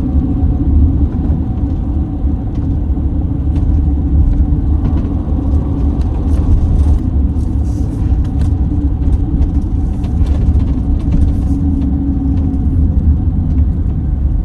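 Motorhome driving on a winding mountain road: a steady low engine and road rumble with light scattered rattles.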